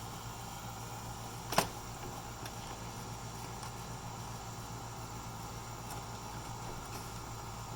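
A single sharp click or knock about one and a half seconds in, over a steady low background hum.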